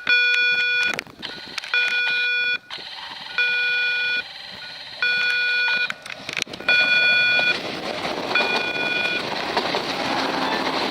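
Railway level-crossing warning signal sounding a repeating electronic tone, about one every second and a half to two seconds. From about seven seconds in, the rushing noise of a passing train rises beneath it.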